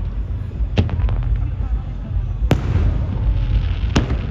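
Aerial fireworks bursting: three sharp bangs, about a second, two and a half seconds and four seconds in, the first followed by a short run of smaller crackles, over a continuous low rumble of more distant shells.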